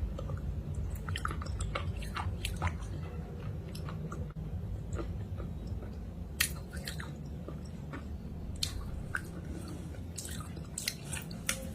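Close-up chewing and biting of something crunchy, with irregular crisp crunches.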